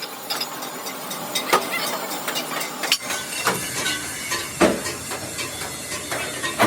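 Steel fabrication shop noise: irregular knocks and clanks of mild steel sheet being worked, over a steady hiss. The background changes abruptly about three seconds in.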